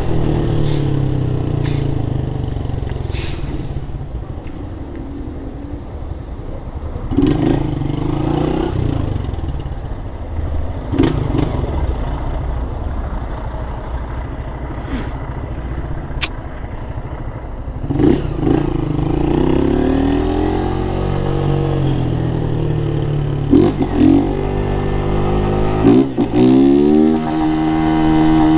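Honda CG 160 Start's single-cylinder engine, run without its air filter, pulling through the gears under way: the pitch climbs several times as it revs up and drops back at each gear change, with steadier running between.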